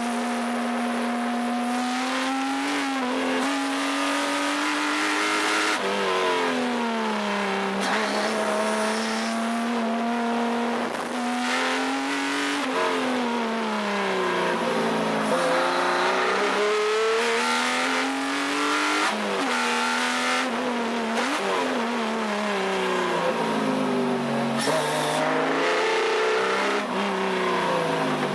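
Subaru EZ30 flat-six engine in a Porsche 914/6 being driven hard on a race track. The revs climb, drop suddenly at gear changes and fall away under braking, over and over.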